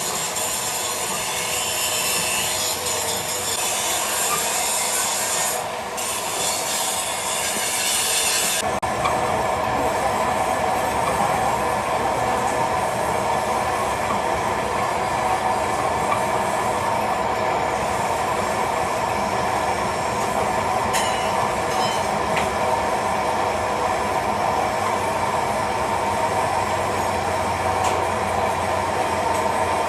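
Factory machinery running steadily with a continuous grinding, rubbing noise. About nine seconds in, the hiss drops away and a steadier hum takes over.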